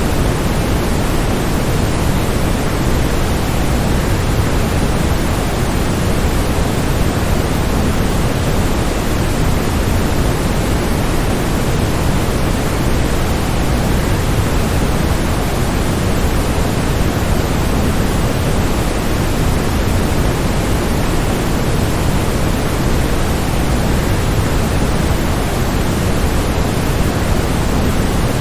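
Waterfall, a steady, unbroken rush of falling water, heavier in the low range than the high.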